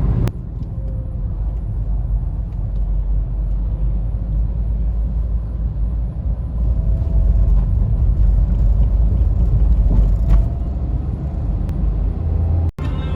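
Steady low rumble of a car in motion, the road and engine noise heard from inside the vehicle, broken by a sudden short dropout near the end.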